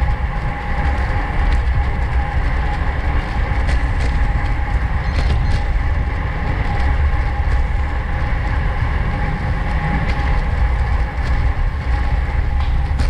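Steady wind rush and rolling noise from a road bicycle at race speed, picked up by a camera microphone riding on the bike, with a heavy low rumble and an occasional faint click.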